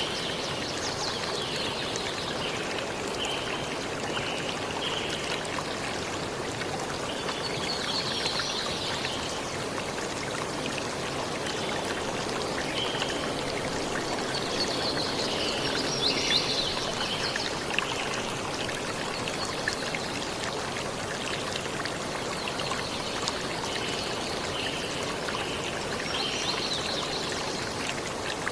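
Steady rush of running water, with small birds chirping in short, repeated high phrases every few seconds.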